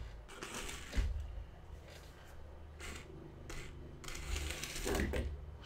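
Faint clicks and rustling from a small HO-scale handcar model being handled and nudged on plastic track, with a sharp click about a second in, over a low steady hum.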